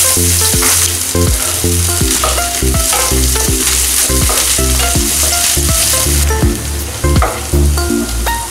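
Chopped onion and green chilli sizzling steadily in hot oil in a frying pan, stirred and scraped around the pan with a wooden spatula.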